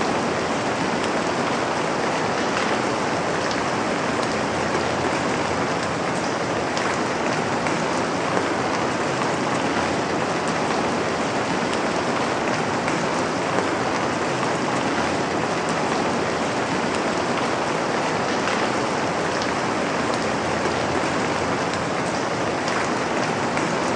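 Steady rain falling on a surface, an even hiss with faint scattered drop ticks and no thunder.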